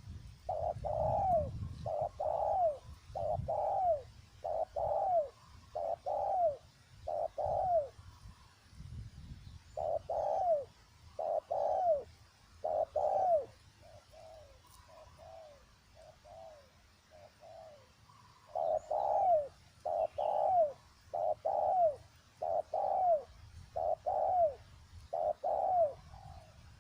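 Spotted dove cooing: a long run of short, falling coos about two-thirds of a second apart, in loud bouts broken by brief pauses, with fainter coos in the middle. A low rumble sits under the first coos.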